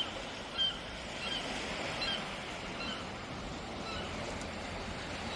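A flock of geese calling: many short, repeated calls, about two a second, over a steady haze of background noise.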